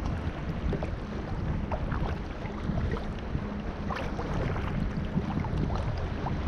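Sea kayak being paddled: water splashing and dripping off the paddle blades in many small, irregular splashes, over a low rumble of wind on the microphone.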